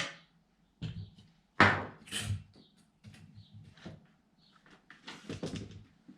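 A string of irregular knocks and clatters from objects being handled, starting with a sharp click, the loudest about a second and a half in.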